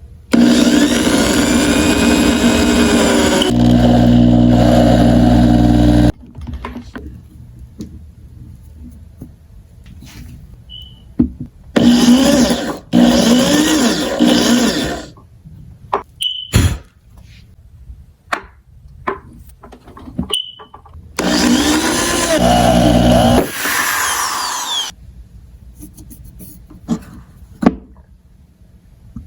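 An electric power tool's motor runs loudly three times for a few seconds each, with clicks and knocks in between. A short high beep, typical of a smoke alarm chirping, sounds every several seconds.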